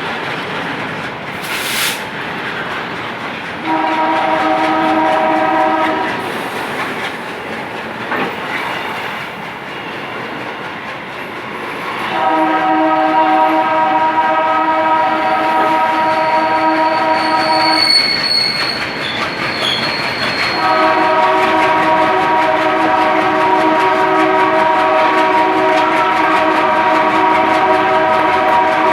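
Indian Railways locomotive horn sounding a multi-tone chord over the steady rumble and clatter of a moving train. There is a short blast about four seconds in, a longer one from about twelve seconds, and a long, held one from about twenty seconds on. A thin high whine is heard briefly near the end of the second blast.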